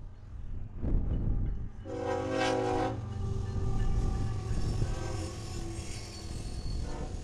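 Freight train passing behind BNSF diesel locomotives, with a steady low engine and rail rumble. About two seconds in the lead locomotive's air horn sounds one short blast of about a second.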